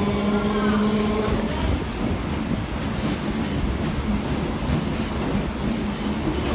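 Electric suburban local train running along the track: a steady rumble with a humming tone that fades out about one and a half seconds in, and a few clicks from the wheels over the rails.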